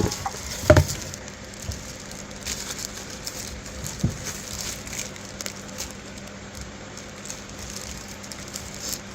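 Light crackling and rustling from handling plastic packaging and vacuum attachments. A sharp knock comes about a second in and a softer one about four seconds in.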